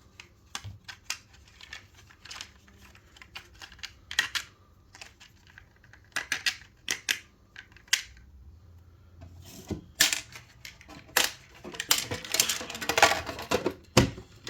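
Handling of a diecast model's plastic display base and packaging: scattered light clicks and taps, then denser rustling and clatter in the last few seconds.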